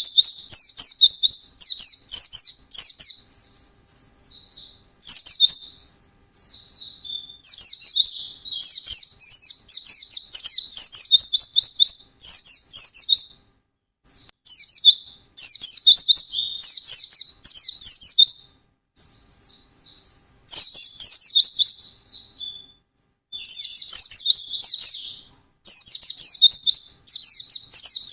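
White-eye (pleci) singing a loud, fast twittering song: rapid runs of very high notes in phrases a few seconds long, with brief pauses between them.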